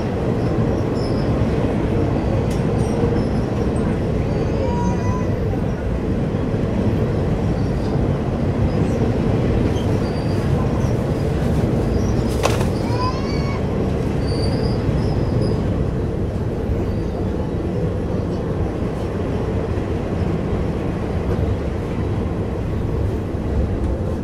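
Passenger train running along the track, heard from inside the carriage: a steady rumble of wheels and carriage, with one sharp clank about halfway through.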